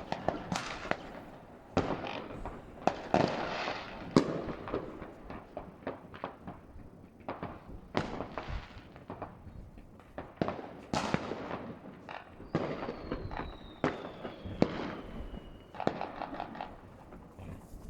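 Fireworks going off: an irregular run of bangs, several close together, some followed by crackling. A thin whistle falls in pitch for about three seconds past the middle.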